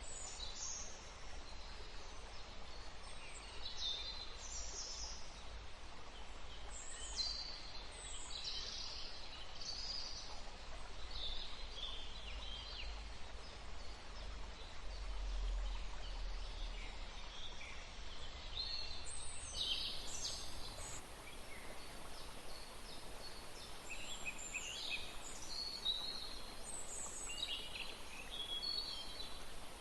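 Outdoor nature ambience: many short bird calls and chirps, scattered irregularly, over a steady background hiss.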